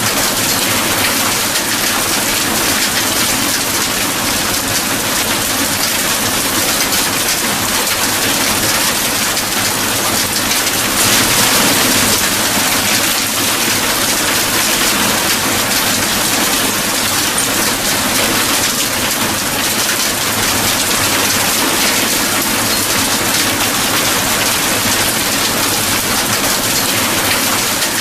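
Steady, dense rainfall, swelling slightly about eleven seconds in.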